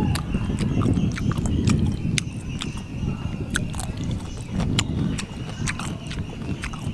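Close-up chewing and lip smacking while eating roast pork by hand: a string of irregular sharp wet clicks and smacks over a low pulsing chewing sound.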